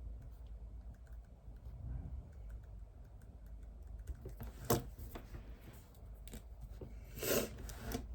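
Typing on a computer keyboard: sparse, scattered key clicks, with one sharper click just under five seconds in and a louder half-second clatter near the end.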